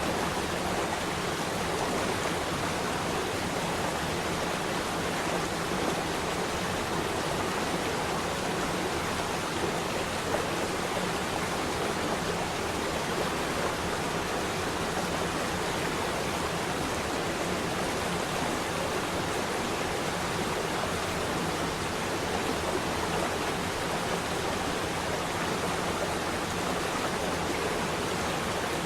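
Running water, a steady, even rush of flowing water with no change.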